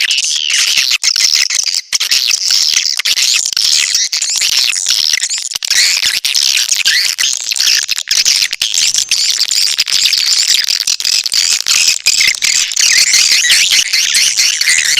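Edible-nest swiftlets twittering: a dense, unbroken chatter of high chirps, the recorded lure call played to draw swiftlets into a nesting house.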